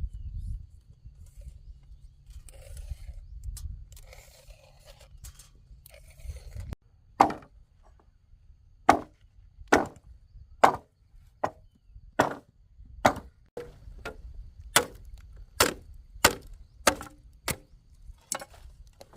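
Chopping: about sixteen sharp blows of a blade into wood, irregularly spaced half a second to a second apart, starting about seven seconds in after a stretch of low rumble.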